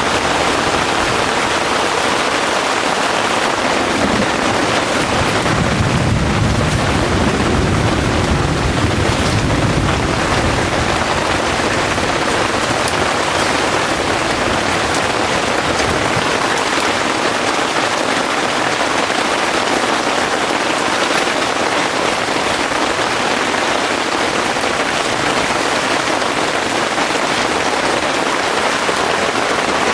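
Heavy rain falling steadily. A low rumble of distant thunder swells from about four seconds in and fades out around sixteen seconds in.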